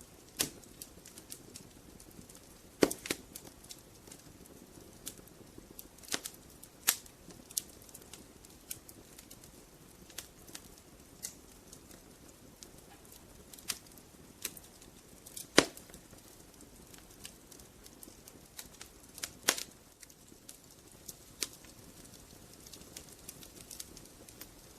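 Logs burning in a fireplace, crackling with irregular sharp pops and snaps over a faint steady hiss, with two louder pops about three seconds in and about fifteen seconds in.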